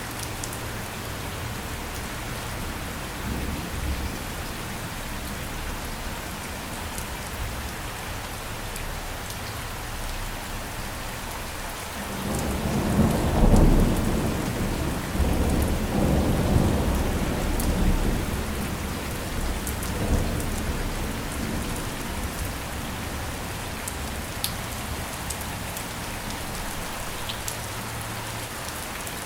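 Steady rain falling. A roll of thunder comes in about twelve seconds in, loudest a moment later, and rumbles away in waves over the next several seconds.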